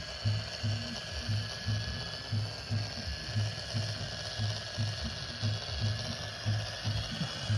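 RC mini tractor's drive gears and motor running with an even, ratchet-like clicking, a little over two clicks a second.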